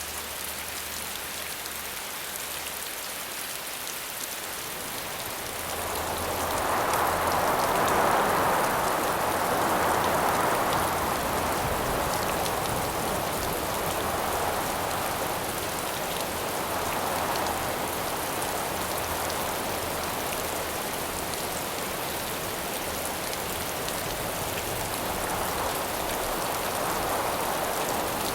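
Steady rain falling, an even hiss. From about six seconds in, gusts of howling wind swell and fade over it several times, the first the loudest.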